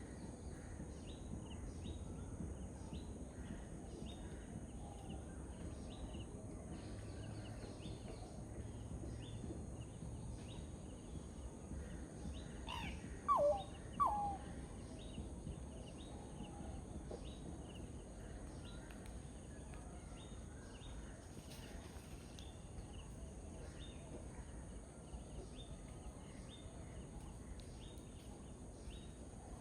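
Pheasant-tailed jacana calling: two loud calls about halfway through, each sweeping quickly in pitch, over faint short high chirps repeating about once a second and a low steady background rumble.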